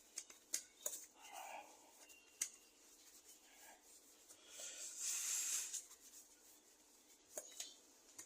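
Faint clicks and rubbing from hands handling the opened laptop's parts, with a longer hissing rub about five seconds in.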